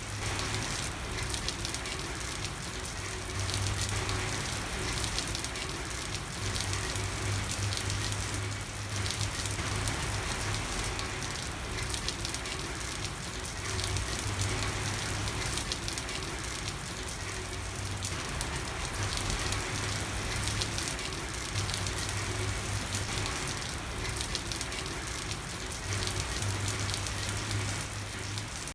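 Steady rain falling on a street, an even patter with a low hum underneath that swells and fades every few seconds.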